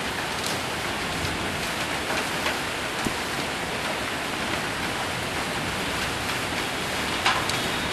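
Steady heavy rain with hail drumming on a metal roof, with a few sharper ticks scattered through it, the strongest near the end.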